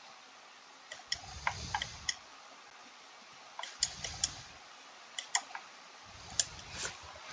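Light clicks and taps in four short clusters a second or two apart, with soft low thuds under each cluster: small handling noises while game units are moved.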